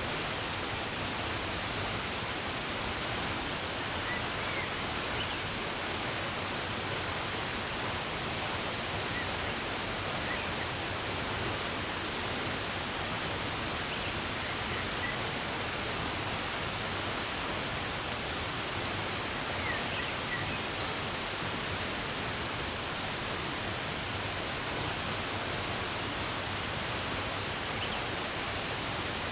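Steady rush of running water, with a few faint, short bird chirps now and then.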